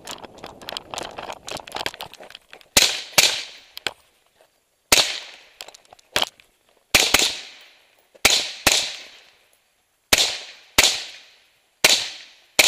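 AR-15 rifle firing about a dozen shots, mostly in quick pairs, each trailing off in echo. Before the first shot, about two and a half seconds of scattered small clicks and rattles.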